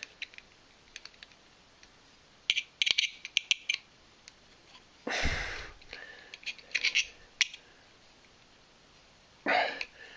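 Screwdriver prying at the cover plate of a door handle: scattered small metal clicks and rattles in clusters, with two longer rustling bursts, one about halfway through and one near the end.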